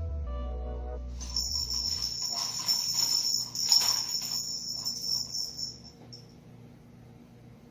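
A ball rattling and jingling as it spins around the track of a round plastic cat toy. It starts about a second in, is loudest in the middle and stops about six seconds in.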